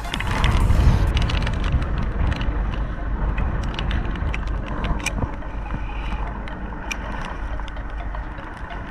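Fishing boat on the water: a steady low rumble from the engine and wind, with scattered sharp clicks and ticks from gear on deck.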